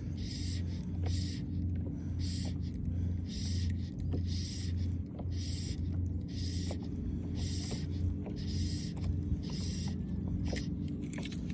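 Fly line being stripped in hand over hand through the rod guides of a fly rod: a steady run of scratchy swishes, about one every second, over a steady low hum.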